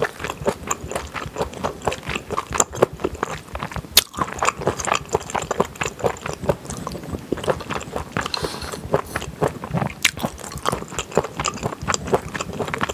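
Close-up chewing and biting of a mouthful of rice and soy-marinated seafood wrapped in dried laver: a dense run of quick clicks, with a few sharper ones along the way.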